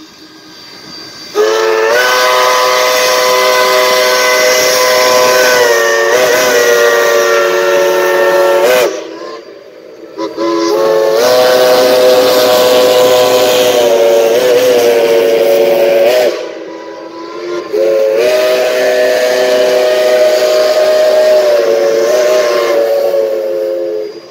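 Steam locomotive whistle sounding three long blasts, each a chord of several notes with a slight sag in pitch partway through, over hissing steam.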